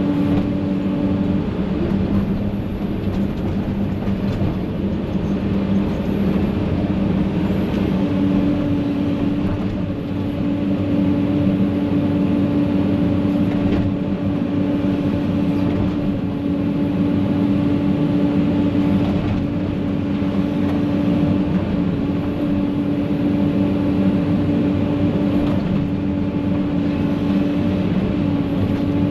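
Diesel engine of heavy land-clearing machinery running steadily at a constant speed, with an even, unchanging engine note.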